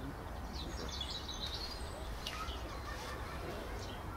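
Outdoor ambience: small birds chirping in short, scattered calls over a steady low background rumble.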